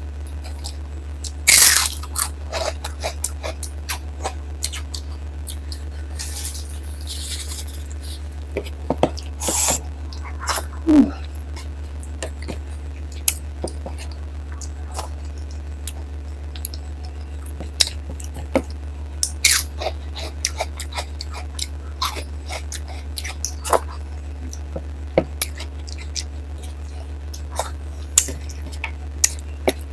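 Close-miked eating sounds: a person chewing and smacking on mouthfuls of dal and rice, with scattered short clicks and a few louder crunchy bites. A steady low hum runs underneath.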